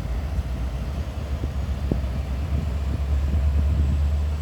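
Diesel-electric freight locomotives' engines giving a deep, steady rumble that grows louder from about halfway through as they are throttled up.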